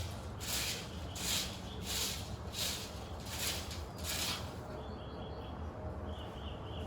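A broom sweeping, its bristles scraping in regular strokes a little more than once a second, stopping a little past halfway. Faint bird chirps follow.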